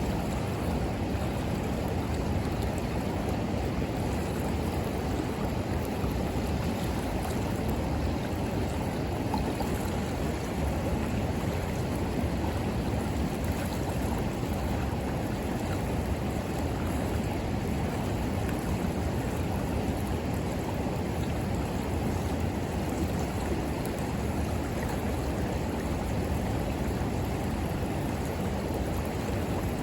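River water flowing steadily, a constant rushing noise with no breaks.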